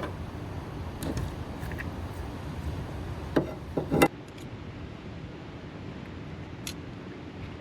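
A few light clicks and taps of a metal fork and knife being handled, most of them close together about halfway through, over a low steady background noise.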